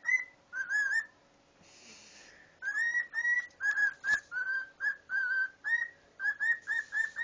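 Pet cockatiel whistling a tune as a quick run of short, clear notes, pausing for about a second and a half near the start, then whistling on without a break. A single sharp tap sounds about four seconds in.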